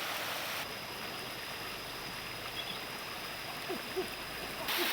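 Steady rush of flowing water, with a few short low calls falling in pitch about three and a half to four seconds in and a thin steady high tone in the background.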